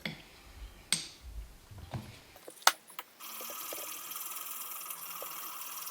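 A few clicks and knocks of tools and a sharpening stone being handled on a workbench, the sharpest about two and a half seconds in. About three seconds in, a steady high hiss starts suddenly and carries on.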